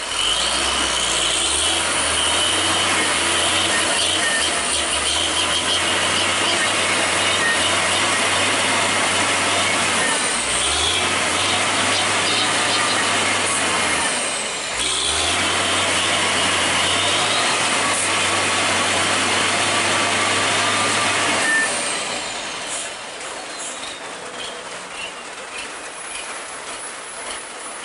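Heavy truck's engine running under load with loud hiss and road noise, the low drone breaking off briefly twice, then the sound drops much quieter about twenty-one seconds in.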